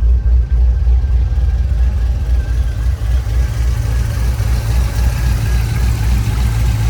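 Cammed 6.0-litre V8 running with a choppy, uneven low rumble, loud throughout.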